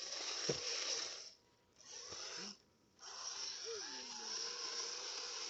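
Kyosho Blizzard radio-controlled snowcats running through snow: a hissing whir from their electric drives and tracks with a faint wavering whine, cutting out twice briefly.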